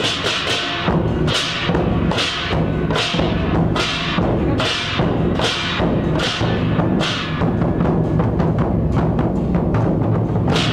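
Traditional temple-procession percussion: drums with clashing cymbals and gongs, struck in a steady beat about once or twice a second and quickening near the end.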